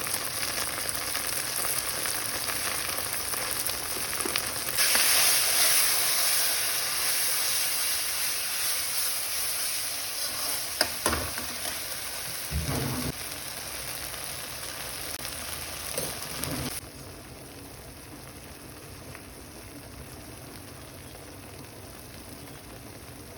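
Food frying in oil in a pan, a steady sizzle that gets louder about five seconds in. A few short knocks come through it, and at around seventeen seconds the sizzle drops suddenly to a softer hiss.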